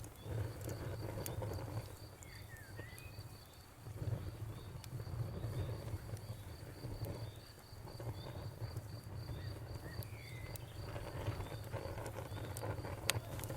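Wood fire crackling, with scattered sharp pops over a low rumble of flames. A cricket chirps steadily, about three times a second.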